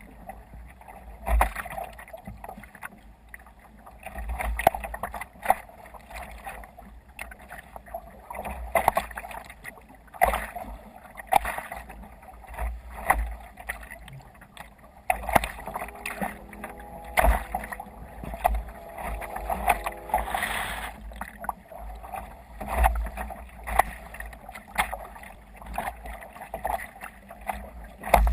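Water sloshing and slapping against a sailing kayak's hull in waves, with irregular splashes and low knocks. About halfway through, a steady pitched hum with several tones sounds for around five seconds.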